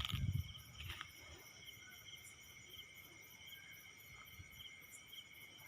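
Faint insects chirping in a steady, pulsing high trill, with a brief low knock in the first moment.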